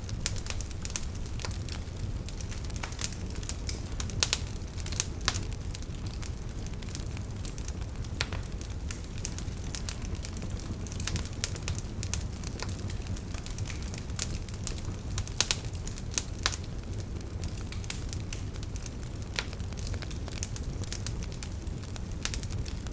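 Wood campfire burning, the firewood crackling and popping at irregular moments, with a few sharper pops standing out over a steady low rumble of the flames.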